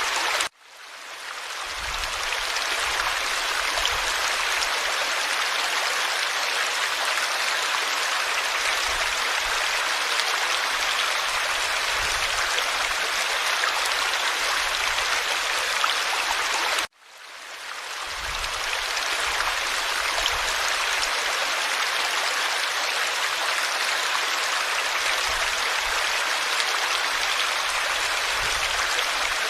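Forest stream flowing, a steady rushing and babbling of water. Twice, about half a second in and again about 17 seconds in, the sound cuts out suddenly and fades back up over a couple of seconds.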